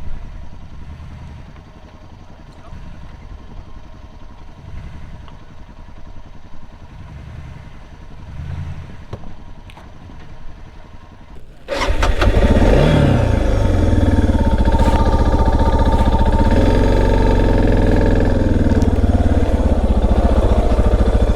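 Suzuki DR650 single-cylinder dual-sport motorcycle engine running, at first a fainter uneven rumble. About twelve seconds in it becomes suddenly much louder and close, revs up briefly, then holds a steady pull.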